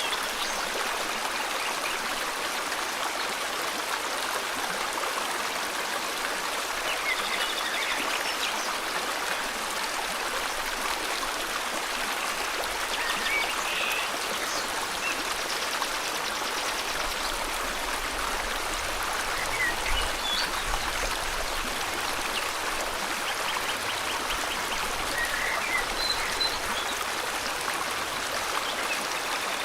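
A river's steady rush of flowing water, with faint bird chirps now and then.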